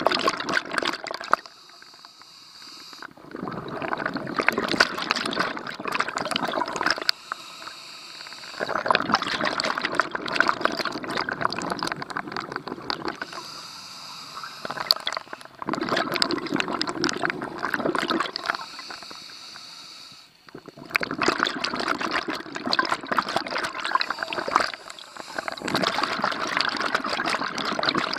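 Scuba regulator breathing underwater: long bursts of exhaled bubbles, several seconds each, alternating with short quieter gaps as the diver breathes in.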